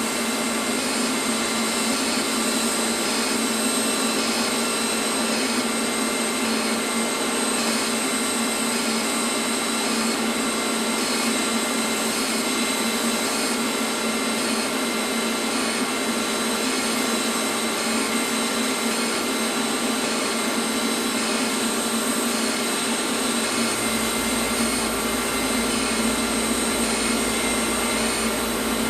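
Power grinder running steadily and grinding down a bandsaw-cut steel bracket, a loud unbroken whine.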